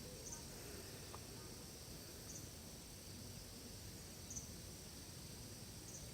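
Forest ambience: a steady high insect drone with a short, high double chirp repeating about every two seconds.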